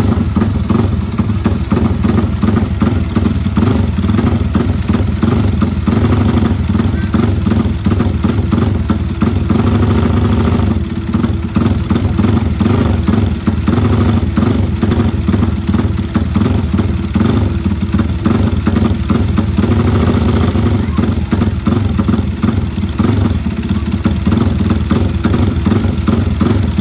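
Yamaha Vixion race-built single-cylinder four-stroke motorcycle engine running at a steady idle, loud and even, with a slight shift in pitch about ten seconds in.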